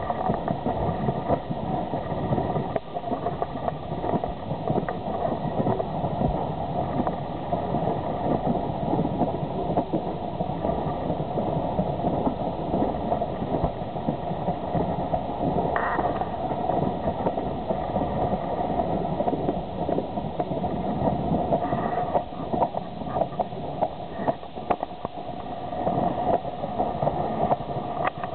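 Steam-hauled passenger train running, heard from an open carriage window: a steady rumble of the coach wheels on the track with irregular clicks and knocks.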